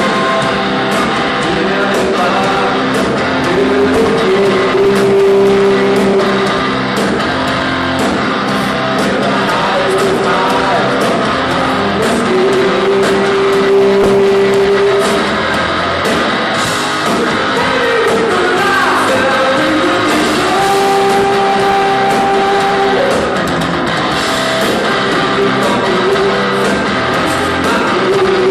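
Rock band playing live, with guitars and a line of long held notes that slide in pitch.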